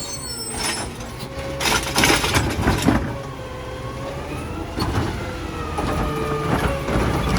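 Side-loader garbage truck at work: the engine and hydraulics run with a whine that falls and rises again, and the arm and bin clank several times.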